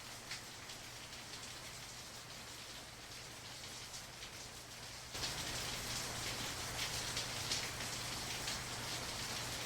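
Monsoon rain falling steadily, a constant hiss with scattered sharp drop ticks. It turns suddenly louder and brighter about five seconds in.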